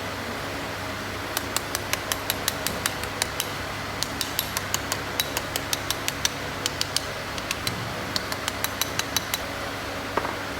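A run of sharp metallic clicks, two to four a second and somewhat irregular, over a steady fan hum. They are small metal parts or a tool clicking during hand work on an engine, and they stop about a second before the end.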